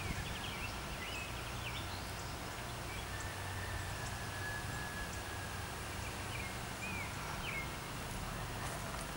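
Small birds chirping in short, quick phrases over steady outdoor background noise. The chirps come at the start and again about two-thirds of the way through.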